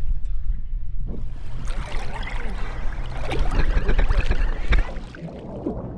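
Water splashing and bubbling around a waterproof action camera, over a steady low boat-engine hum. The crackly splashing comes in about a second in and eases off near the end.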